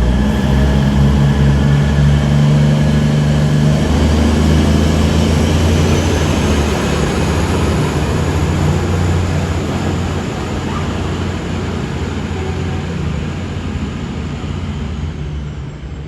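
Passenger train running loudly through the station and moving away, with a low drone strongest in the first half and a high whine that rises in pitch over several seconds and then holds. The sound slowly fades toward the end.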